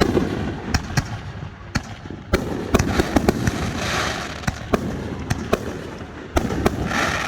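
Fireworks display: a rapid, irregular series of sharp bangs from bursting shells, starting abruptly, with bursts of crackling about four seconds in and again near the end.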